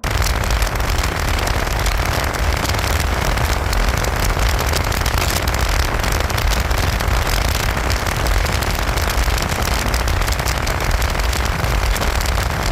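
Wind buffeting the microphone of a motorcycle ride at speed: a loud, steady rushing noise with a heavy low rumble and fine crackle.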